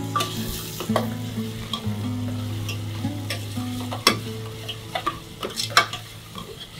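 Chopped onion, ginger and garlic sizzling in hot oil in a stainless steel pressure cooker, with a metal spoon stirring and scraping the pot and knocking against it several times.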